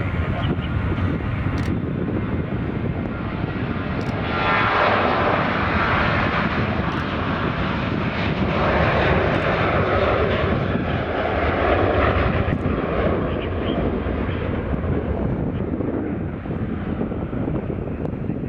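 Boeing 737 jet engines roaring on departure, with a thin whine at first. The roar swells about four seconds in, stays at its loudest through the middle, and then fades slowly as the jet goes away.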